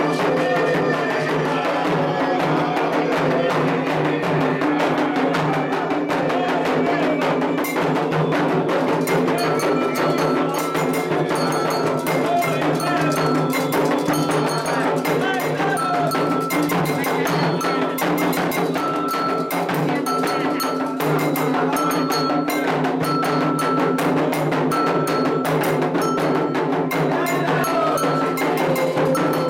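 Candomblé ritual music for Oxalá: atabaque hand drums beating a continuous rhythm under voices singing. From about nine seconds in, a struck metal bell rings a short high note at an even pace, about once every second and a half.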